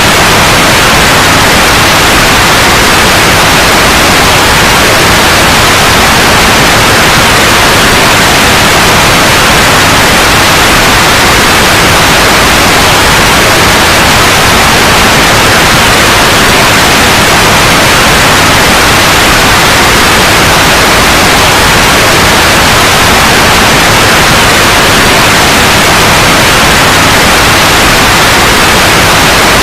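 Steady, loud white noise: an even hiss across all pitches that does not change.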